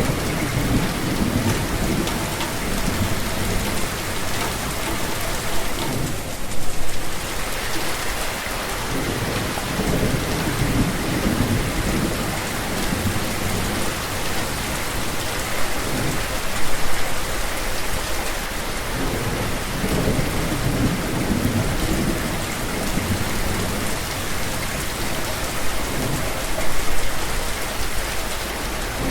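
Steady rain falling, with low rolling thunder rumbling underneath. Three brief louder peaks come about ten seconds apart.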